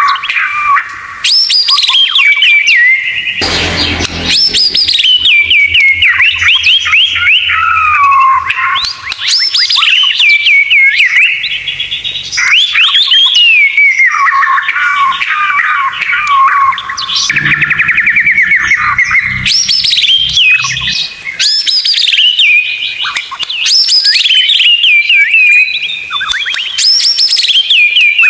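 White-rumped shama (murai batu) singing a continuous, loud run of varied whistled phrases: rising and falling sweeps mixed with rapid chattering trills.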